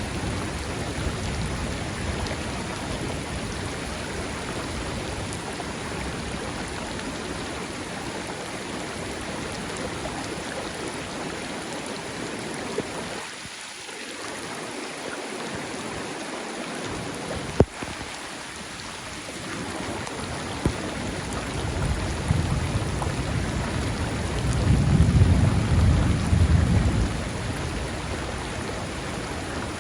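Thunderstorm over a river: steady rain and rushing water. A low roll of thunder builds about two-thirds of the way through, is loudest near the end and then fades. There is one sharp click a little past the middle.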